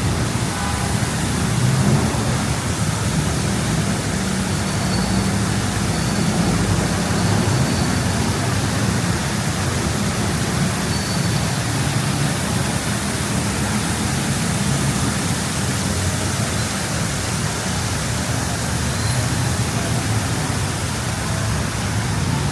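Steady city street ambience: a continuous low rumble of traffic under an even hiss, with no single event standing out.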